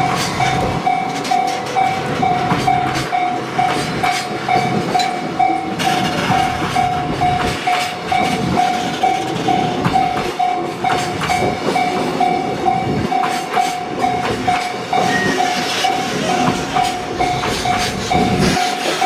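A train rolling by with its wheels clattering over the rail joints, while a level crossing alarm rings steadily in a fast, evenly repeating ding.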